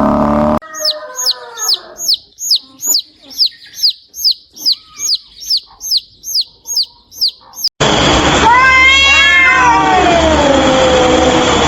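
A run of short, high-pitched falling chirps, about two a second, then after an abrupt cut a cat meowing in long, wavering calls.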